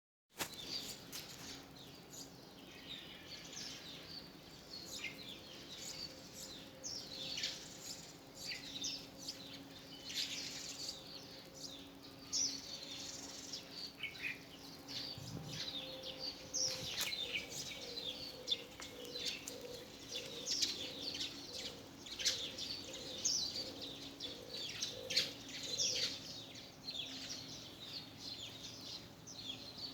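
A flock of small birds chirping constantly, many short high calls overlapping, over a faint steady low hum.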